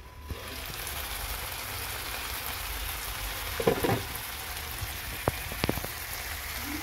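Chicken wings and chopped vegetables sizzling in oil in a nonstick frying pan, a steady frying hiss that swells as the glass lid comes off. A few sharp ticks come about five seconds in.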